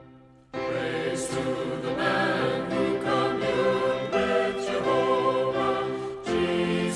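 A choir singing a slow hymn, starting about half a second in after a brief pause.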